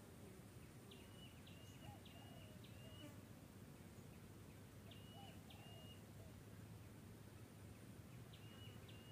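Quiet outdoor ambience with a small bird calling: short high whistled notes, each a quick rise into a brief level tone, repeated in runs of two to four a few seconds apart.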